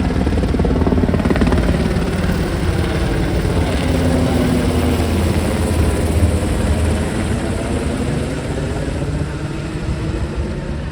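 Military helicopter's rotor and turbine running loud after takeoff, the sound slowly fading over the second half as it flies off.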